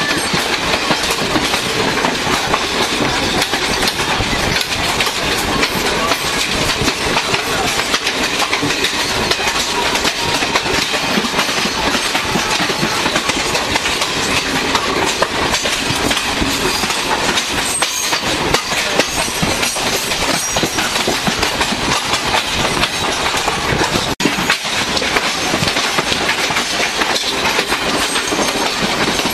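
Loud, steady rumble and clatter of passenger trains running on adjacent tracks: steel wheels clicking over rail joints in a clickety-clack, with wind rushing past the open coach door. The sound cuts out for an instant about three-quarters of the way through.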